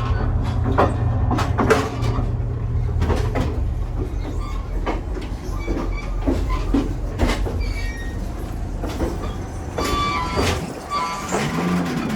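The interior of a moving passenger railcar: a steady low rumble of the car rolling over the track, with frequent clicks and knocks from the wheels and car body. Near the end the rumble drops away and brief thin high squeals come in.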